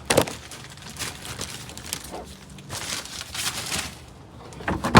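Collected litter being dropped into a garbage can: a sharp knock at the start, rustling through the middle, and another knock near the end.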